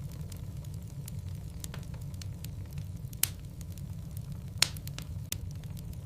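Logs burning in a fireplace: a steady low rumble of flame with scattered crackles and two sharper pops, about three and four and a half seconds in.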